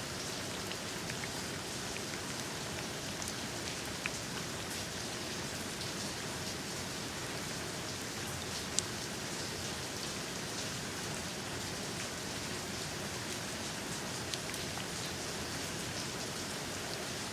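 Steady rain falling: an even, continuous hiss with scattered sharper drop ticks, one louder drop about nine seconds in.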